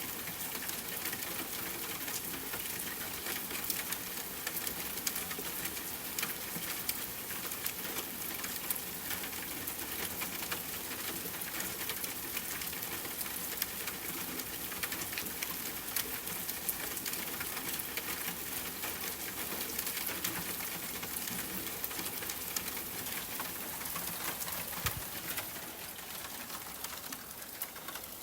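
Steady rainfall hiss mixed with a crackling wood fire, many small sharp crackles and pops over the even rush of rain.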